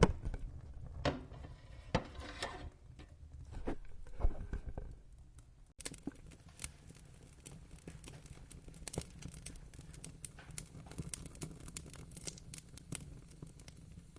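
Wood fire crackling and popping, with loud sharp pops in the first few seconds. After an abrupt cut about six seconds in, the crackling turns quieter and denser.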